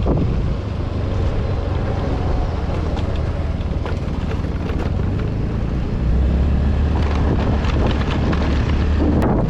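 Wind buffeting the microphone over the low, steady running of a vehicle's engine on the move. The engine rumble gets louder about six seconds in.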